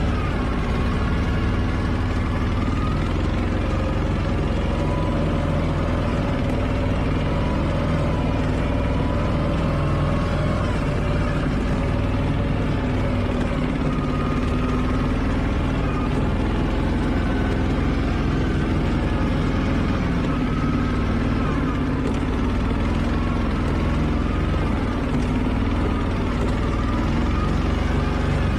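Argo amphibious ATV's engine running steadily, heard from on board, with small rises and falls in engine speed.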